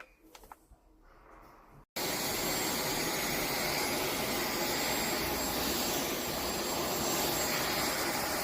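Dyson V12s Origin Submarine cordless vacuum cleaner running at a steady speed, a loud even rush of air with a thin high whine on top. It cuts in abruptly about two seconds in, after a few faint clicks.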